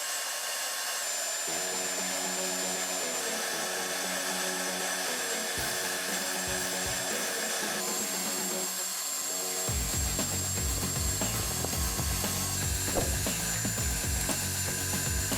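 Steady power-tool or machine running under background music.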